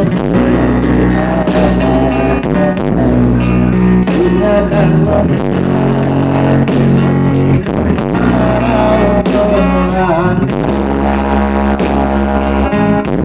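A pop-rock song with guitar, drum kit and heavy bass, played loud through a hired PA sound system during a sound check.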